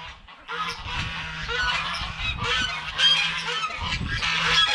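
Yard poultry flock calling together: many overlapping honks and chatter, with geese honking most plainly. The calls start after a brief lull at the very beginning.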